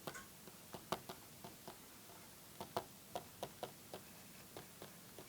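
Light, irregular ticks and taps of a pen on the writing surface as words are written out, about a dozen small clicks spaced unevenly.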